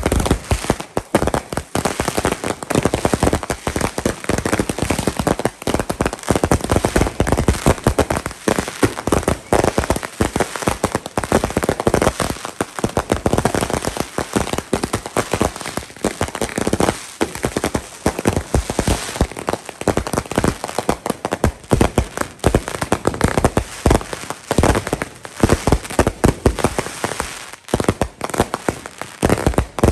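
Fireworks going off: a dense, unbroken run of rapid popping and crackling, like a long string of firecrackers.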